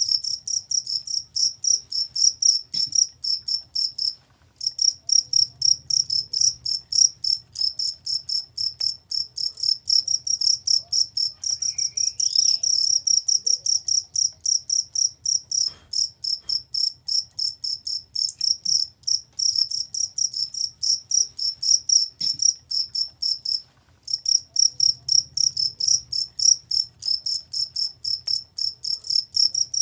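Cricket chirping in a steady, fast rhythm of loud, high-pitched chirps, about three or four a second. The chirping breaks off briefly twice.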